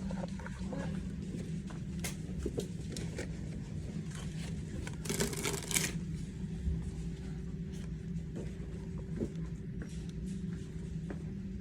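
Rustling and small clicks of packaging and toy packs being handled, with a louder burst of rustling about five seconds in, over a steady low hum from the store.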